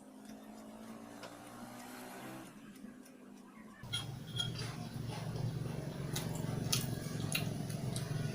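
Eating sounds: scattered sharp clicks and smacks of someone eating barbecue skewers. About four seconds in, a steady low background hum starts.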